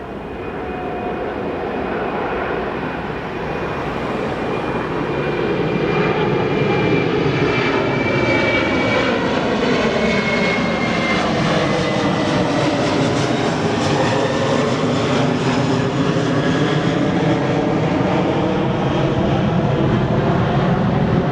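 Jet airliner passing close by: a loud engine roar that builds over the first several seconds and then holds, with a high engine whine slowly falling in pitch.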